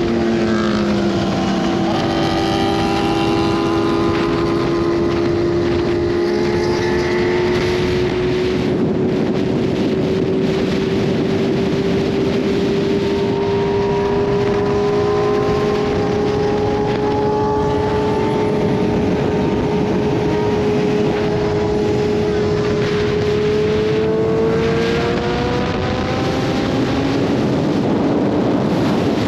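BMW S1000RR inline-four with an SC Project full titanium exhaust, running under steady throttle while riding, its note climbing slowly as speed builds. The pitch drops in a gear change right at the start, and again about 25 seconds in after a short rise.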